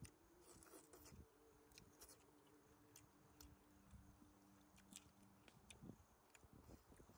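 Faint chewing and small clicking mouth sounds of someone eating, with a faint steady low hum underneath.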